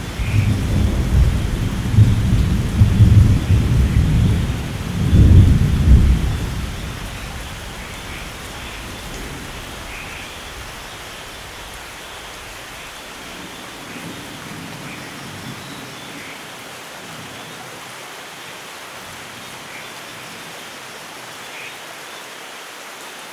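Thunder rumbling over steady heavy rainfall in a rainforest, with a loud peak about five seconds in. The rumble dies away after about seven seconds, leaving the even hiss of rain.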